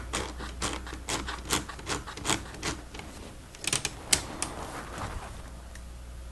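Plastic Lego Technic pieces clicking and rattling as they are handled and pressed together, a quick run of irregular small clicks with a louder cluster about four seconds in, then fewer.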